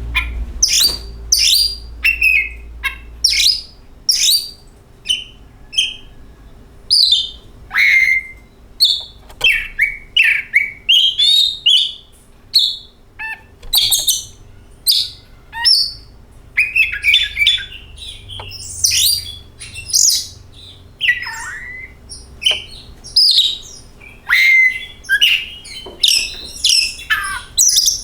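Oriental magpie-robin (kacer) singing: a fast, varied run of short high whistles, chatters and downward-sweeping notes, coming in quick irregular phrases with brief gaps between them.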